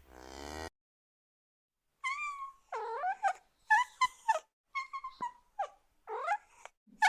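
Cat mewing: a rapid run of short, high-pitched mews starting about two seconds in, some gliding up and others down.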